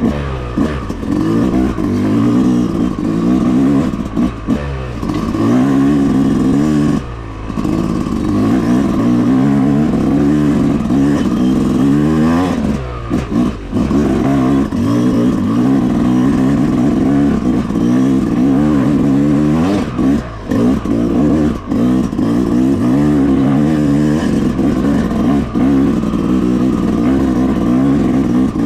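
Yamaha YZ250X 250cc two-stroke single-cylinder dirt bike engine lugging uphill at low revs under load, its pitch rising and falling with the throttle. The rider briefly backs off three times, about 7, 13 and 20 seconds in.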